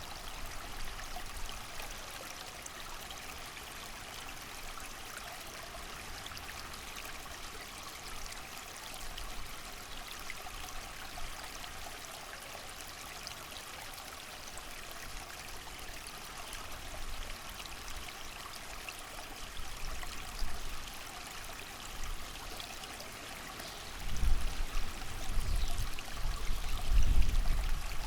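A creek running steadily with an even rush of water. Gusts of wind rumble in over the last few seconds, louder than the water.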